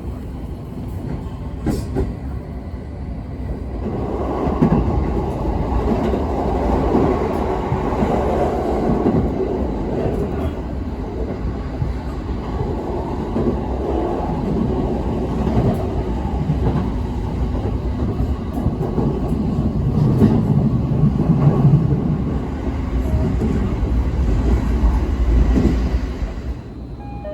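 Train running on the rails, a rumbling clatter that swells about four seconds in, holds steady, and drops off sharply near the end.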